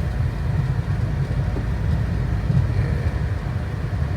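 Steady low rumble inside a moving car's cabin: engine and tyres running over a slushy, snowy road.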